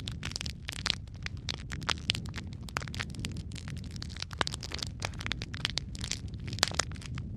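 Wood fire burning in a fireplace: constant irregular crackling and snapping over a low steady rumble of the flames, with a few louder pops, the sharpest about two seconds in and near the end.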